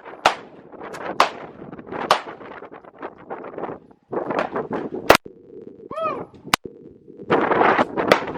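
Pistol shots fired one at a time at a target: three about a second apart, then a pause and three more at wider gaps.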